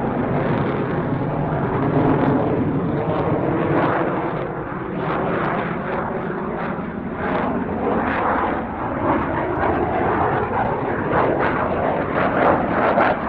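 Dassault Rafale fighter jet's twin turbofan engines heard in flight: a continuous rushing jet noise that rises and falls in level.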